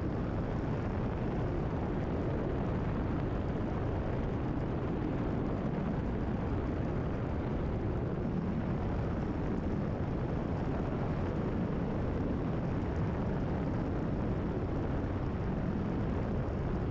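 Steady cabin drone of a Cessna 172RG's four-cylinder Lycoming engine and propeller at climb power, heard from inside the cockpit.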